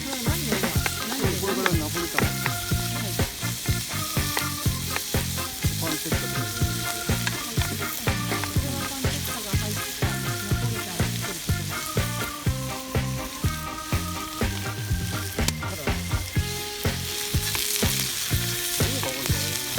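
Food sizzling and frying in a pan while being stirred, under background music with a steady beat.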